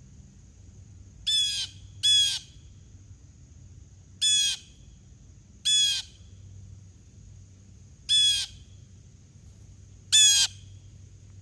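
Harsh, squawking calls from a corvid, six in all, each short and grating, at uneven gaps. A faint steady high-pitched hum runs underneath.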